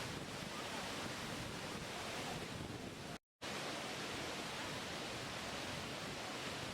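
Steady rushing water, an even hiss-and-rumble with no rhythm, that drops out to dead silence for a split second about three seconds in.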